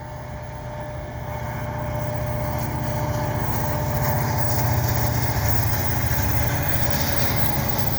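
Diesel engine of a CN SD70M-2 freight locomotive, an EMD 710 two-stroke, working as it hauls a train, with a low, fast, steady pulse and a faint whine. It grows louder to a peak about five seconds in and eases slightly near the end.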